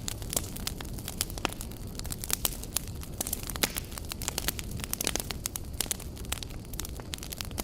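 Campfire burning, with frequent sharp irregular crackles and pops over a steady low rumble of the flames.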